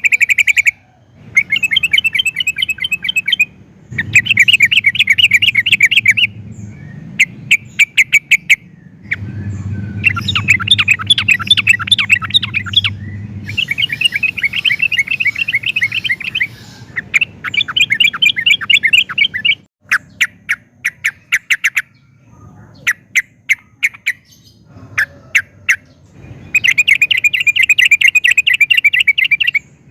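Yellow-vented bulbul (trucukan) singing: fast chattering trills repeated in phrases a second or a few seconds long with short pauses, mixed with runs of separate sharp notes.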